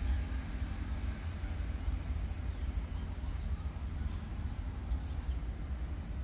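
Low, steady rumble of a long container freight train's wagons rolling by on the rails, with a few faint high chirps about three seconds in.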